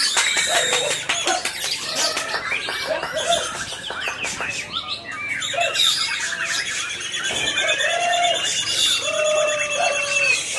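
Several white-rumped shamas (murai batu) singing at once, their songs overlapping in a dense mix of varied whistles, sharp clicking notes and rapid trills, with a fast high trill repeating over the last few seconds.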